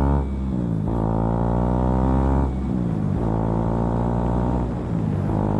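KTM Duke 200's single-cylinder engine running under way, heard from the bike. Its note holds steady between brief dips in pitch about three times, near the start, about halfway through and near the end.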